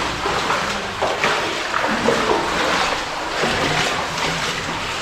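Water splashing and running, a steady rush broken by irregular splashes.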